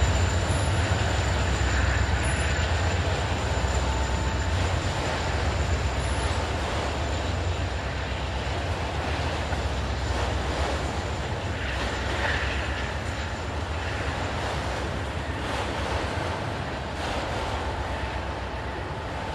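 Freight train rolling past: a steady low rumble with rail and wheel noise, slowly getting quieter.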